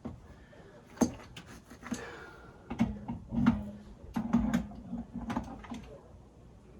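Tools and metal fittings being handled during plumbing work: irregular knocks and clicks, with a low rasping tone for about two seconds in the middle.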